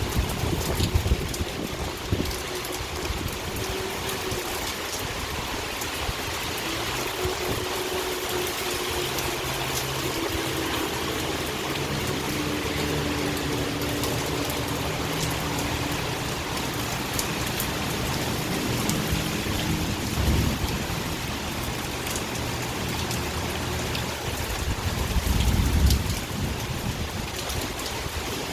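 Steady heavy rain falling in a thunderstorm. Short low rumbles come about a second in, around two-thirds through and near the end, and a faint low hum runs through the middle.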